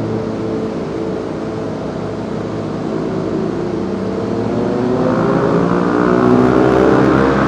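Suzuki SV650S V-twin engine breathing through a Delkevic 200mm stubby exhaust, running steadily under way, then accelerating from about four seconds in, rising in pitch and getting louder.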